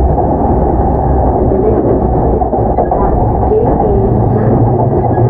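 Running noise inside a JR East E233 series 7000 commuter train car under way: a steady low rumble of wheels on rail and car body, with no pauses.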